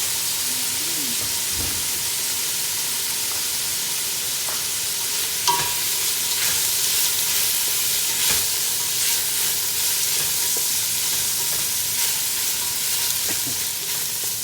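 Chicken sizzling and frying in oil in a cooking pot with garlic, onion and ginger, a steady hiss, with a few clicks of the spoon against the pot as it is stirred.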